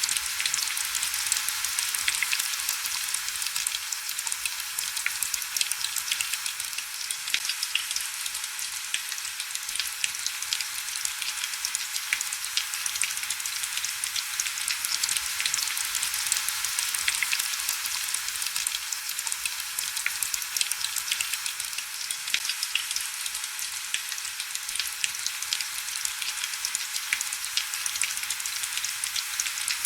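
Heavy rain falling: a dense, steady patter of many small drops, crisp and hissy with little low rumble.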